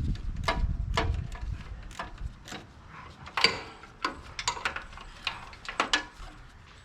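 Irregular sharp metallic clicks and knocks of hand tools and small hardware being handled against metal, with a low rumble of handling noise in the first second or so.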